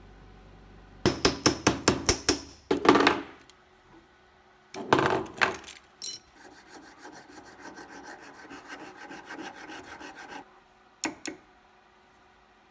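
Hand file rasping on a silver piece: a burst of quick strokes, a couple of longer heavier strokes, then a long run of faster, lighter strokes. Two sharp clicks near the end.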